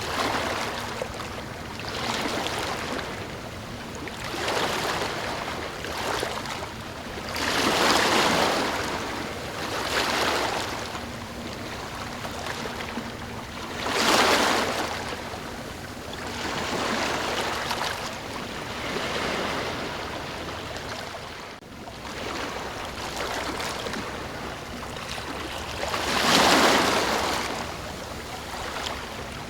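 Ocean waves breaking and washing in, a rushing surge that swells and fades every few seconds, with the biggest waves about a quarter, half and near the end of the way through.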